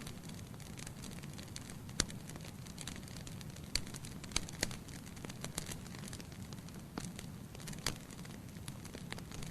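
Wood fire burning in a fireplace: a steady low rumble of flames with irregular sharp crackles and pops from the logs, the loudest about two seconds in.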